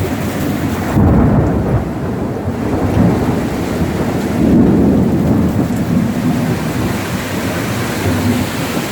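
Heavy rain in a windy thunderstorm: a steady downpour with low rumbling swells about a second in and again around four and a half seconds.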